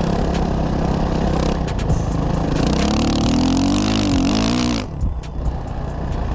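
Suzuki RM-Z 450 dirt bike's four-stroke single-cylinder engine running under riding, with scattered ticks. Its pitch climbs and wavers as it revs about three seconds in, and the sound turns abruptly duller near five seconds in.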